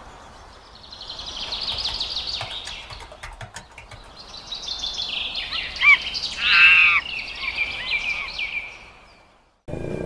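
Birdsong: rapid chirping trills with a few sliding whistles, loudest a little past the middle, fading out near the end.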